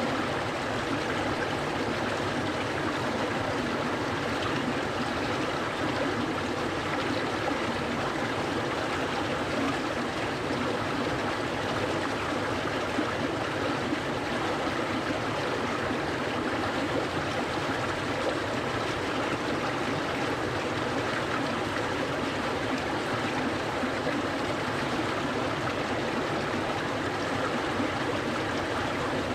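A clear, cold mountain stream flowing steadily over rocks, a continuous even rush of water.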